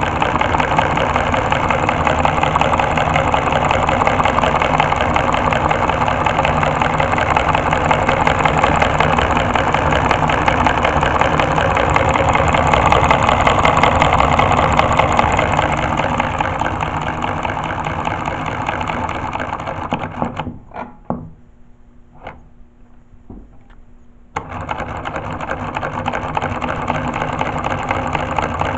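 Homemade four-cylinder solenoid engine running fast, a rapid buzzing clatter of solenoids and pistons that the builder likens to a true V8 sound. About twenty seconds in it slows and stops, with a few single clicks, then starts again suddenly some four seconds later.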